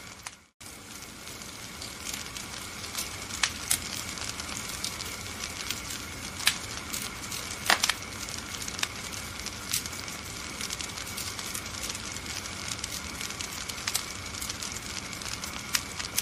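Wood fire crackling, with a steady hiss and frequent sharp pops, the loudest a little past the middle. The sound cuts out for a moment about half a second in.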